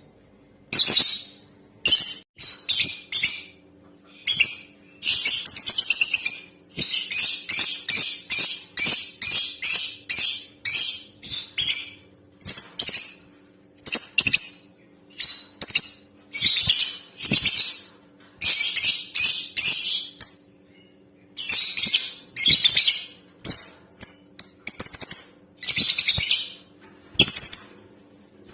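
Female lovebird calling in high, shrill chirps, in rapid runs of a few seconds broken by short pauses. A faint steady hum lies underneath.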